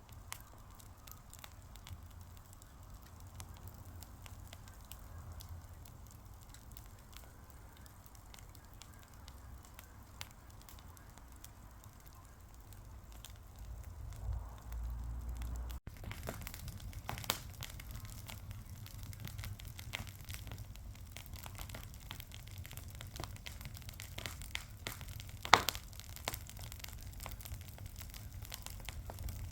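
A fire crackling with scattered sharp pops. About halfway through, the crackling becomes louder and busier, and one loud pop stands out late on.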